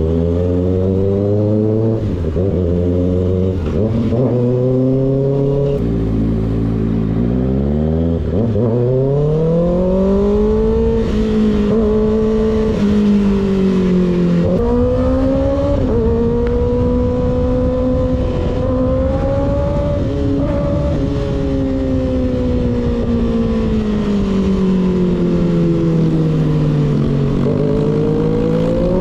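Motorcycle engine with a baffle-less slip-on exhaust under way: a few short changes in revs in the first seconds, then it pulls up to high revs and holds them, easing off briefly once midway, sinking slowly and climbing again near the end.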